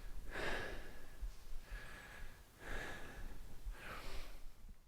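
A person breathing hard after exercise, with four loud breaths about a second apart.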